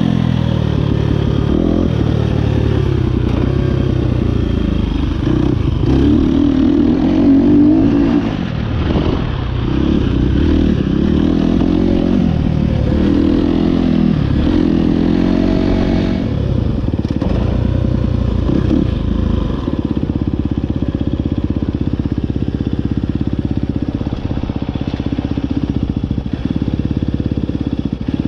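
2023 KTM 250 SX-F's single-cylinder four-stroke engine, fitted with an Akrapovic Evolution Line exhaust, revving up and down repeatedly under throttle, then settling into a steadier, lower note for the last several seconds.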